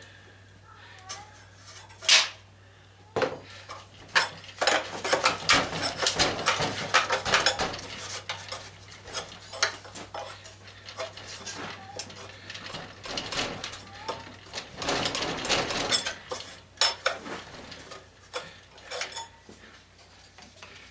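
Metal tools clinking, clanking and scraping against the sander's cast aluminum parts during hand disassembly, with one sharp clank about two seconds in and a busy stretch of clattering through the middle.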